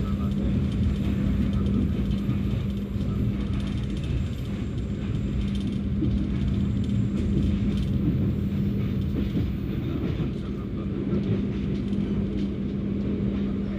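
Passenger train running on the rails, heard from on board: a steady low rumble with a constant hum that drops out briefly twice.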